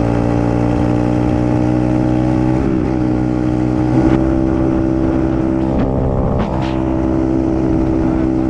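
A 125cc dirt bike's engine runs steadily as the bike is ridden, with wind rushing past. The engine note shifts briefly near 3 seconds and again near 6.5 seconds, as the throttle or gear changes.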